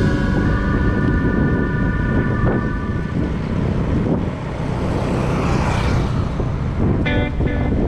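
Wind buffeting the microphone of a moving bicycle, a steady low rumble, with held musical tones of background music fading out about three seconds in and short pitched notes returning near the end.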